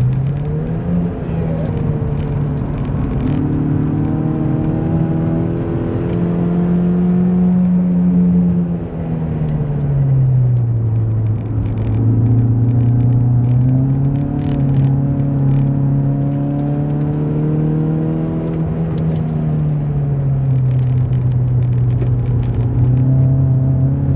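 Opel Vectra's C20XE 2.0-litre 16-valve four-cylinder engine under hard track driving, heard from inside the car. The engine note climbs for the first eight seconds, falls away briefly around nine to eleven seconds in as the driver lifts, then pulls again and holds steady.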